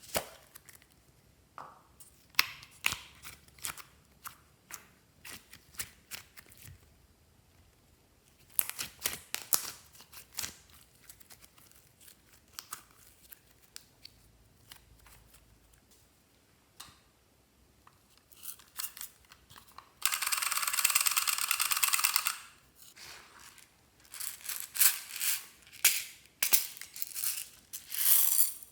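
Glossy slime being worked by hand, with irregular clusters of sticky pops and clicks. About twenty seconds in comes a dense two-second rush of crackling.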